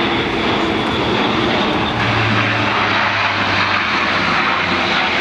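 Airbus A400M's four Europrop TP400-D6 turboprop engines and eight-bladed propellers running in flight: a loud, steady drone. A low hum strengthens about two seconds in.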